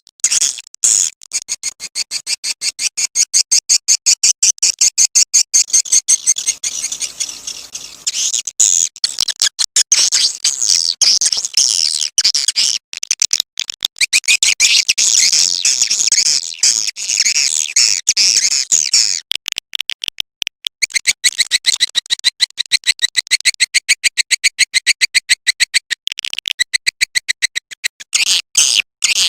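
Swiftlet calling-sound recording: fast, continuous trains of high-pitched chirps and clicks, played as a lure to draw edible-nest swiftlets. It pauses briefly twice.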